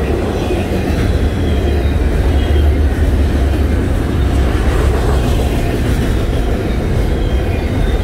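Double-stack intermodal well cars loaded with shipping containers rolling past at close range: a steady, loud, deep rumble of steel wheels on rail.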